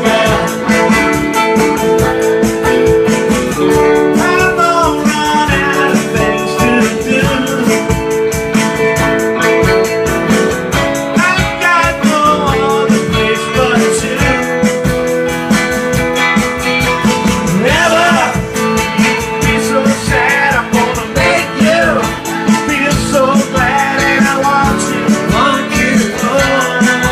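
Live rock-and-roll band playing a song, with guitar over a steady drum beat and singing.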